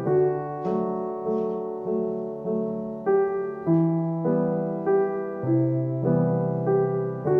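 Solo piano music: a gentle, slow melody of single notes over low held bass notes, a new note struck about every half second and each fading before the next.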